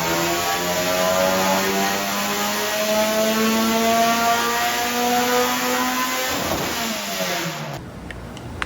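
K24-swapped 1993 Honda Civic's four-cylinder engine making a dyno pull under load: engine speed climbs steadily for about six seconds, then drops back as the throttle comes off. The sound cuts off abruptly near the end.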